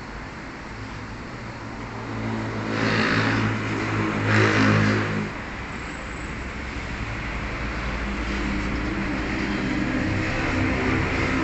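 An engine running, its pitch and loudness rising for a few seconds, falling back, then building slowly again, with two brief hissing bursts during the first rise.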